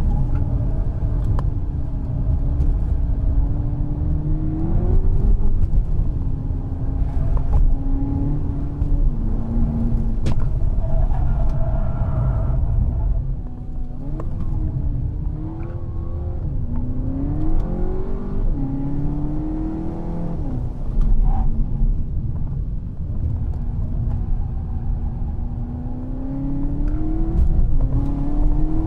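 SEAT Leon Cupra 280's turbocharged 2.0 TSI four-cylinder, heard from inside the cabin on a hot lap. The engine note climbs under throttle and drops at each DSG gear change or lift for a corner, repeating over a constant low road and wind rumble.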